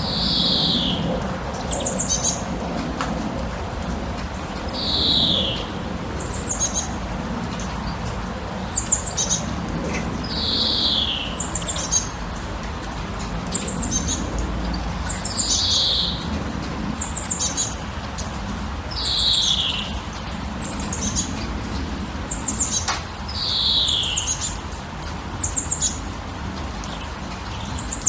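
Birds singing: one bird repeats a short falling call every four to five seconds, with quick high chirps from another between the calls, over a steady low background hiss.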